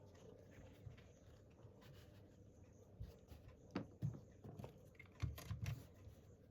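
A few faint, scattered taps and clicks over low room noise, clustered in the second half.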